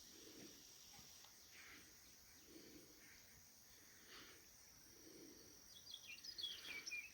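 Faint outdoor evening ambience: a steady high drone of insects such as crickets, with soft low pulses every couple of seconds. A bird gives a few quick chirps near the end.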